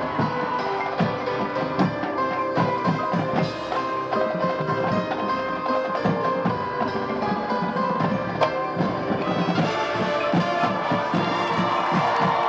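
Marching band playing, with mallet percussion and drums striking busily over sustained chords.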